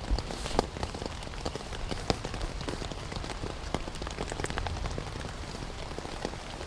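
Steady rain falling on a Wenzel Starlite tent, heard from inside: an even hiss with many separate drops ticking sharply on the tent fabric.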